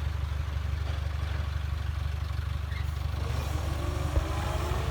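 Heavy earthmoving machine's diesel engine running steadily with a low, pulsing drone, with one sharp knock about four seconds in.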